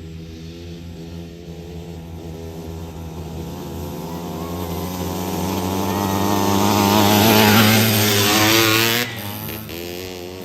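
Kawasaki KMX 125 two-stroke dirt bike engine running on a track, its wavering note growing steadily louder as the bike comes closer, then dropping off suddenly near the end.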